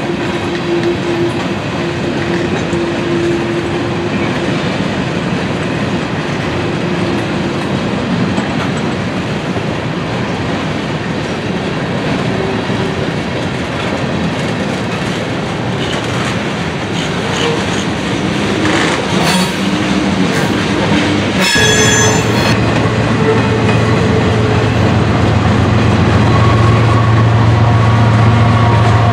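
A train rolling past, its wheels and cars rumbling and clattering steadily. About three quarters of the way through a brief high-pitched squeal sounds, then a deep steady hum comes in and the sound grows louder toward the end.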